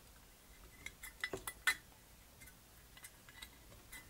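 Small metal carburetor parts and tools clinking and tapping against each other and the bench during hand reassembly of a one-barrel carburetor: a quick cluster of sharp clicks about a second in, then a few scattered lighter ticks.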